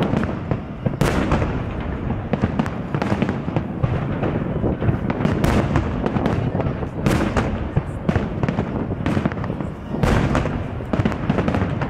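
Fireworks salute: aerial shells bursting one after another in a dense, continuous run of bangs and crackle, with sharper reports every second or two.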